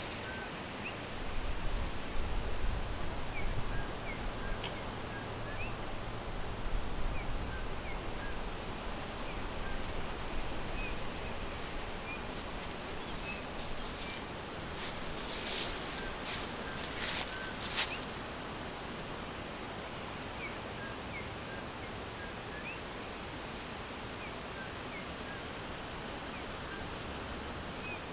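Forest ambience: faint, short bird chirps scattered throughout over a steady rushing background hiss. A few sharp crackles come a little past the middle, and there is a low rumble in the first few seconds.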